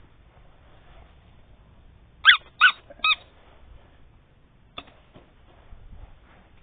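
A dog giving three short, high-pitched yips in quick succession, followed a moment later by a faint knock.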